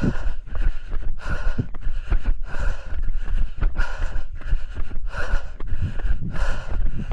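A runner's heavy, rhythmic breathing from hard uphill running, about three breaths every two seconds, over wind rumbling on the microphone and footsteps on the trail.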